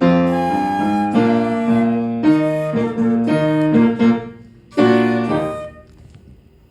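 Flute and piano duet playing the closing bars of a tune, a series of notes ending on a final chord that dies away about six seconds in.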